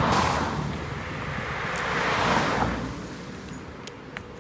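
A road vehicle passing. Its tyre and road noise swells to a peak about two seconds in and then fades away.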